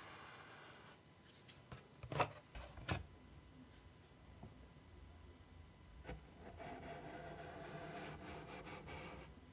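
Close-miked ASMR tapping and scratching on an object: a few sharp taps or clicks in the first few seconds, then a stretch of steady scratching and rubbing that stops just before the end.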